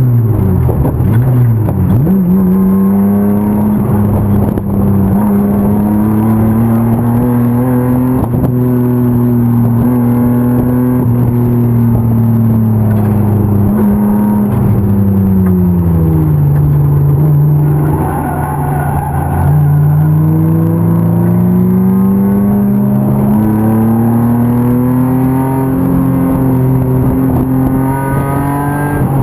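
BMW M50 inline-six engine of an E36 325 race car running hard on track. Revs drop sharply right at the start and then hold high. They fall away about halfway through, then climb steadily again before another sharp drop near the end, as the car shifts gear.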